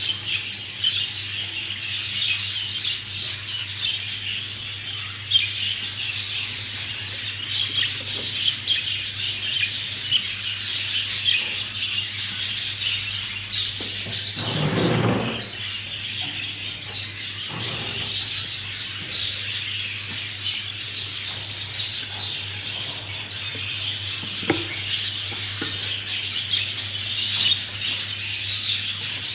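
A group of budgerigars chattering and chirping without pause, over a steady low hum. A short low noise comes about halfway through.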